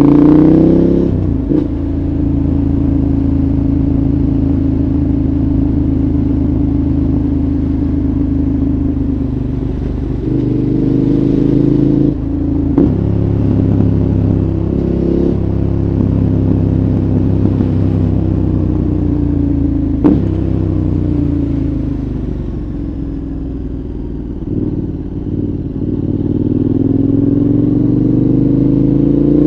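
2014 KTM 1190 Adventure's V-twin engine through a Giannelli exhaust with the dB killer fitted, running under way at steady revs with a few gear changes. It eases off and then accelerates with rising pitch near the end.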